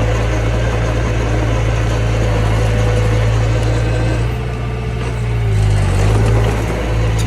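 Diesel engine of heavy earthmoving machinery running steadily, with its engine speed dipping and shifting about four to six seconds in.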